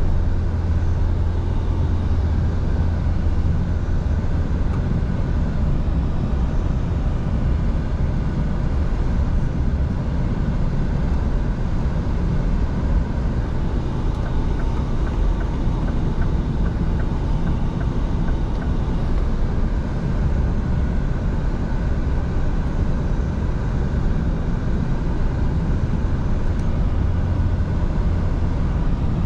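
Scania V8 truck driving at a steady pace: a steady low engine drone mixed with road and tyre noise.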